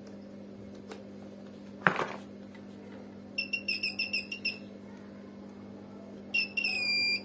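Digital multimeter's continuity buzzer: a quick string of short high beeps about three and a half seconds in, then a steady beep near the end, the meter signalling that the vacuum cleaner's power cord conducts. A sharp click about two seconds in.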